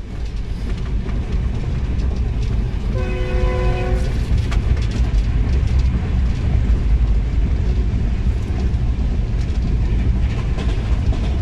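A moving train's running noise heard from inside the carriage: a steady low rumble. About three seconds in, a horn sounds once for about a second.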